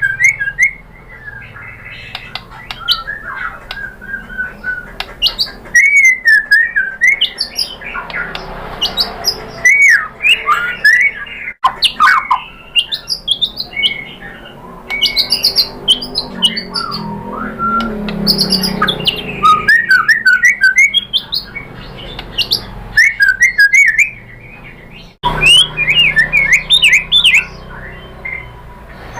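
White-rumped shama (murai batu) singing a fast, varied song of rising and falling whistled phrases mixed with rapid ticking and chattering notes.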